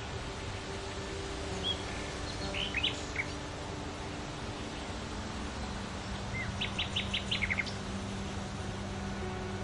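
Songbirds calling: scattered short chirps, and a quick run of about eight notes a little past the middle. Underneath is a steady low hum and a constant outdoor background noise.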